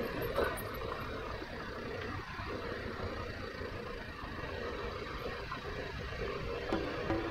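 BMW G 310 GS motorcycle's single-cylinder engine running steadily under a rush of noise. Background music comes in near the end.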